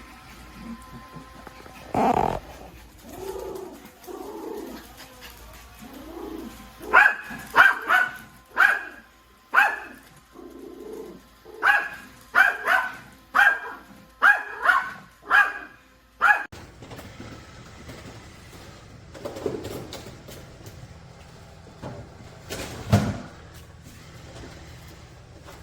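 A dog barking: about fifteen short, sharp barks in quick bursts, with softer, lower sounds before them and only a couple of faint ones near the end.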